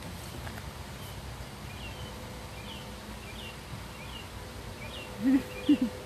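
A bird calling in a steady series of short, falling chirps, about two a second, from about two seconds in. Near the end come a couple of brief, louder voice sounds from a woman.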